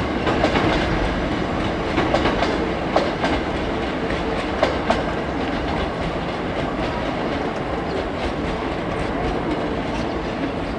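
Hankyu electric train running through Umeda station, its wheels clacking over rail joints and points several times in the first half, then settling into a steady rumble.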